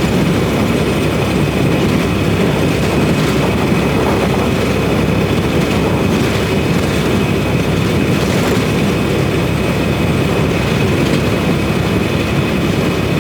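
Steady drone of a semi truck's engine and road noise, heard inside the cab while driving.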